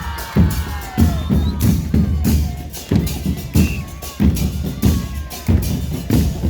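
Murga percussion: bass drums with cymbals mounted on them (bombos con platillo) beating a steady, driving rhythm. Each low drum stroke comes with a cymbal crash.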